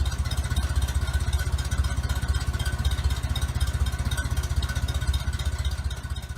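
An engine running steadily, with a rapid, even low putter.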